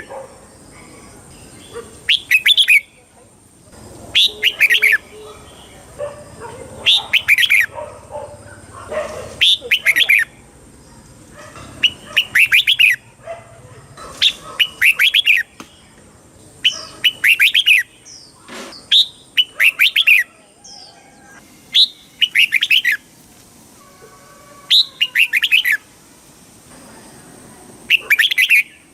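Red-whiskered bulbul singing short, bright, warbling song phrases, repeated about every two to three seconds, with softer chirps between them.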